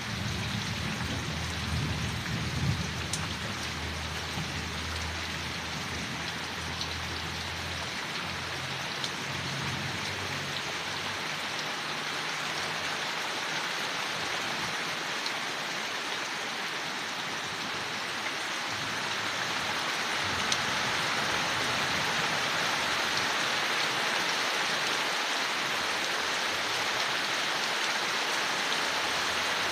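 Steady rain falling on leaves, an even hiss of drops. A low rumble sits under it for about the first ten seconds and fades out, and the rain grows a little louder about two-thirds of the way through.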